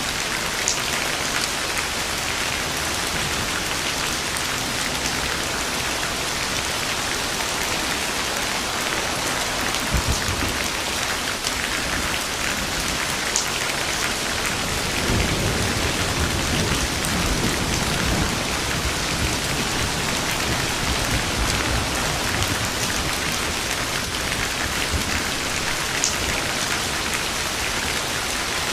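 Steady heavy rain falling and pattering on surfaces, with a few sharp drips. A low roll of thunder swells about halfway through.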